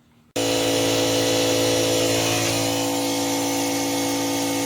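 Angle grinder running steadily, grinding a groove along the crack in a cast-iron exhaust manifold to prepare it for welding. It starts abruptly about a third of a second in and holds an even pitch with a loud hiss.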